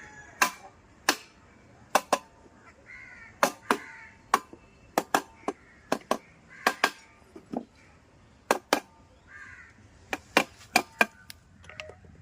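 About twenty sharp knocks at an irregular pace, some in quick pairs, as the new crankshaft of a TVS Ntorq 125 engine is tapped home into the crankcase with a special tool. Crows caw faintly in the background.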